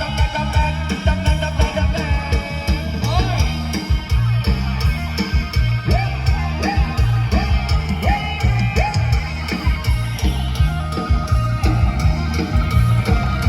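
Loud live band music from a Thai procession band, with a heavy, steady bass and drum beat under a sliding melody line.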